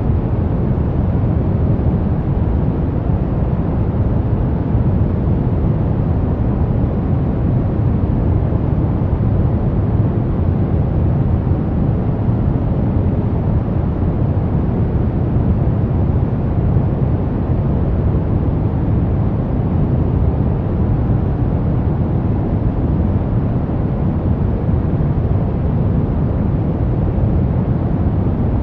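Brown noise: a steady, deep rushing hiss, strongest in the low bass and fading off towards the highs, with no change throughout.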